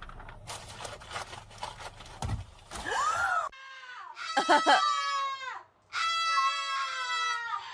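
Rooster crowing twice, each crow a long held call that drops in pitch at the end, after a few seconds of mixed, noisy clip audio.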